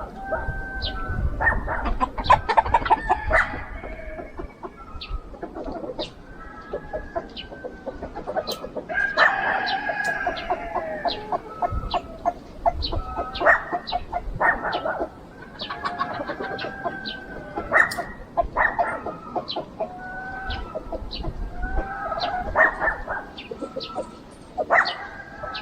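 A flock of chickens clucking and calling over one another without pause, with a rooster crowing about nine seconds in.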